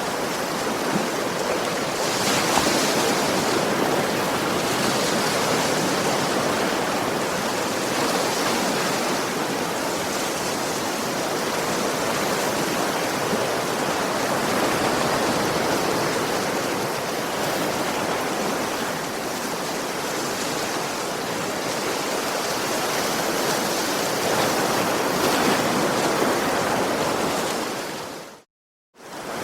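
Ocean waves washing ashore: a steady rushing that swells and eases gently every few seconds, broken by a silent dropout of under a second near the end.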